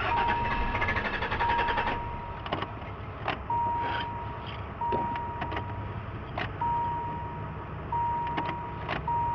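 The Plymouth Voyager's electronic warning chime sounding with the key in the ignition: a steady high tone that repeats, each about a second long with short breaks. Scattered clicks and knocks of handling sound over a low hum.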